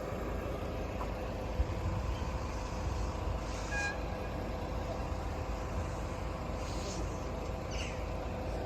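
Steady low rumble of road vehicles waiting or passing at a level crossing, with a steady hum and a brief high chirp about four seconds in.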